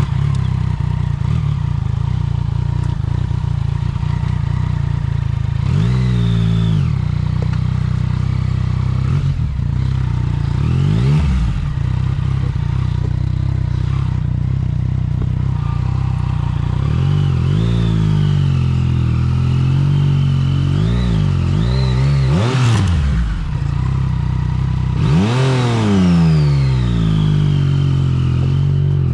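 Yamaha MT-09 Tracer's inline three-cylinder engine running at low speed and revved up and back down about six times, the longest rev near the end.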